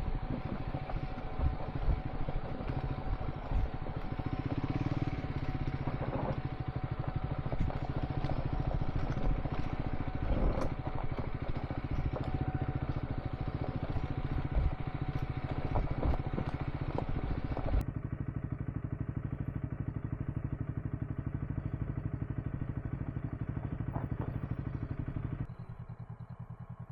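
Triumph Scrambler 400 X motorcycle engine running while riding over gravel, with scattered knocks and clatter from stones. About two-thirds of the way through the sound turns steadier and quieter, and near the end it drops lower again, like the engine settling to idle.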